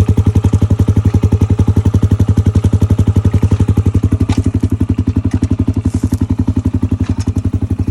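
Dirt bike engine idling in neutral, a steady even beat of about ten pulses a second.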